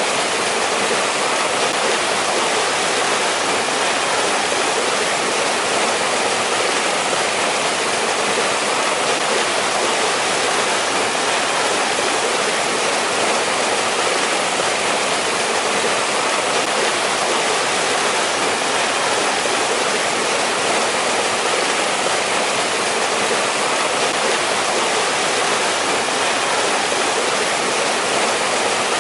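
Mountain stream rushing over rocks in a steady, even wash of water noise.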